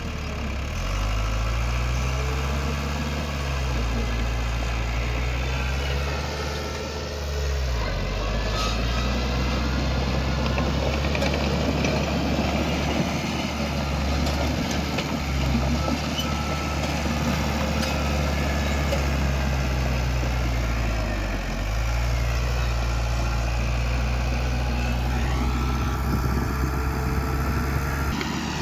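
Heavy diesel engine of earthmoving machinery running steadily under changing load, its pitch sagging and recovering twice, with a rough rattling noise over it through the middle.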